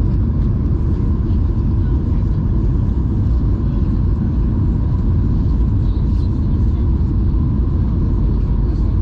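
Cabin noise inside a Boeing 737-800 airliner on approach: a loud, steady low rumble of engines and airflow with a faint steady hum above it.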